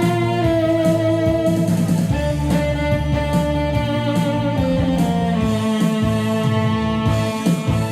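Music: a saxophone playing a melody of held notes over a band accompaniment with guitar.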